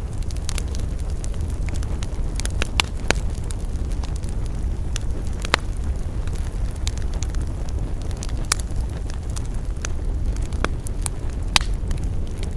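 Wood fire burning: a steady low rumble of flames with irregular crackles and pops as the wood burns, a few sharper snaps standing out among them.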